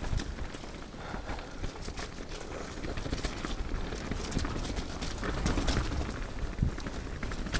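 Mountain bike riding a wet, muddy trail: irregular clattering knocks and rattles of the bike over rough ground, over a steady low rumble of tyres and wind.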